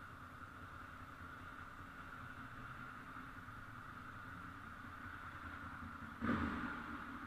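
Motorcycle engines running steadily with a constant hum, then a sudden louder burst about six seconds in that fades away within a second.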